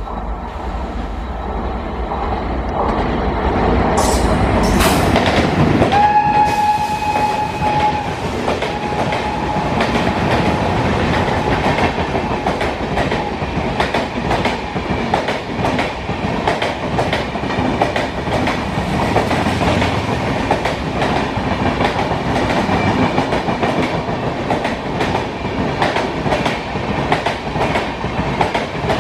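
Express train passing at speed. It grows louder over the first few seconds as it approaches, the locomotive sounds one steady horn blast about six seconds in and a fainter one soon after, and the wheels then clatter over the rail joints in a fast, steady clickety-clack.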